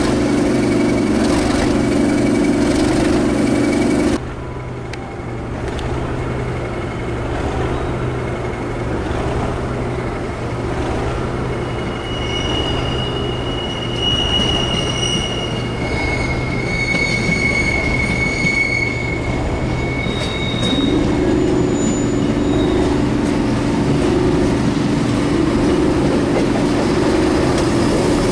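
A Class 97/3 locomotive's English Electric diesel idles with a steady hum, cut off abruptly about four seconds in. A diesel multiple unit then runs round curved track, its wheels squealing in several high tones that come and go. Near the end a diesel multiple unit's engine idles steadily.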